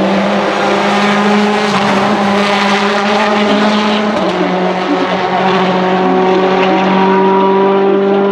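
Citroën DS3 WRC's 1.6-litre turbocharged four-cylinder rally engine running loud and hard, a continuous pitched drone whose pitch climbs slowly over the second half.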